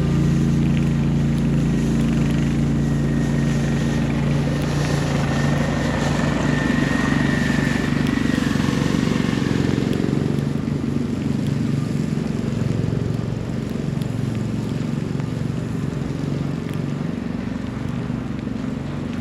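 A motor vehicle's engine running with a steady low hum, with a faint high whine for a few seconds early on. The hum fades gradually through the second half as the vehicle draws away.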